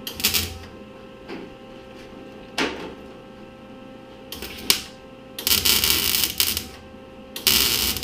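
Wire-feed MIG welder crackling in bursts as it tacks a patch into a sheet-metal truck hood: a few brief zaps, then two longer bursts of about a second each near the end.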